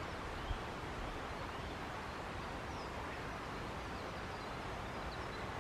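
Steady outdoor background hiss with a few faint, short, high-pitched bird notes in the first half.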